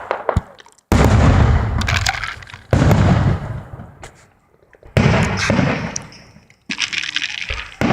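Aerial fireworks going off: four loud bangs about two seconds apart, each trailing off in a fading crackle.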